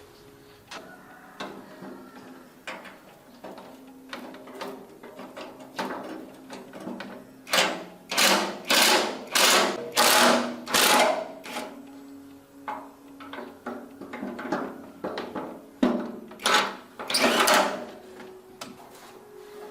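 Repeated rasping hand strokes, about two a second, such as scrubbing or scraping metal by hand. They come in two spells, over a faint steady hum.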